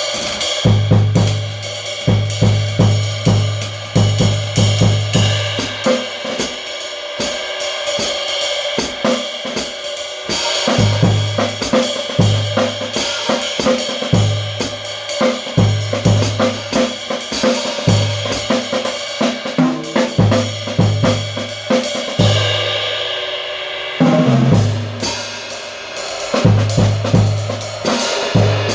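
Drum kit played with Kamin cymbals, the cymbals ringing in a continuous wash over stick strokes, snare and hi-hat, with bass drum beats about twice a second. The bass drum drops out for a few seconds twice.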